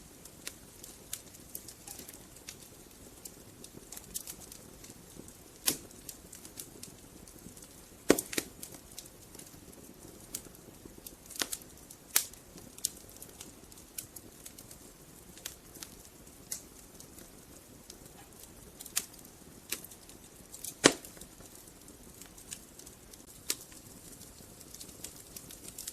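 Wood fire burning in a fireplace: logs crackling with irregular sharp pops over a soft hiss, the two loudest pops about a third of the way in and about four-fifths of the way in.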